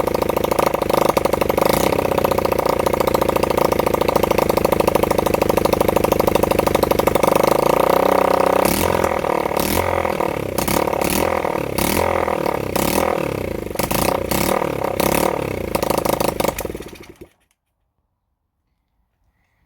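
Honda CB100N motorcycle's single-cylinder four-stroke engine running on its first start in over 20 years. It runs steadily for about seven seconds, then unevenly with irregular sharp pops, and stops suddenly about 17 seconds in.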